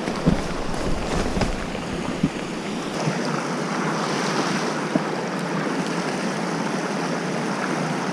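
Steady rush of a mountain river's flowing water. In the first couple of seconds there is a low wind rumble on the microphone and a few sharp knocks.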